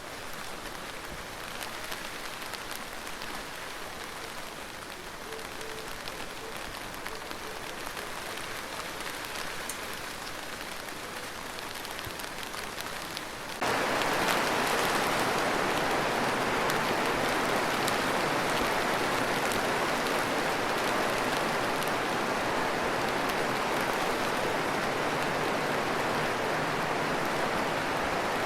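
Light rain pattering with scattered drop ticks. About halfway through it cuts abruptly to much louder, heavier rain that then falls steadily.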